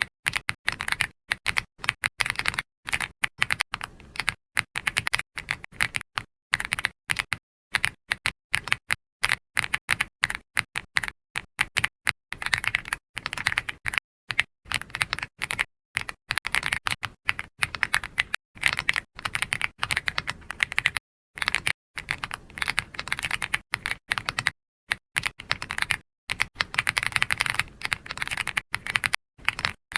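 Computer keyboard being typed on, a fast run of key clicks that comes in bursts with brief pauses between them.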